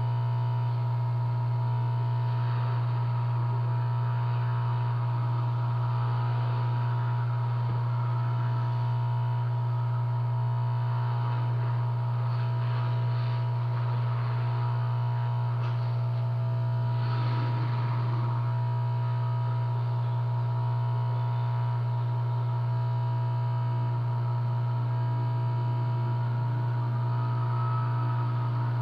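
Steady electrical hum, a loud low tone with a fainter higher tone above it, unchanging throughout. Faint small ticks and rustling come through it about midway.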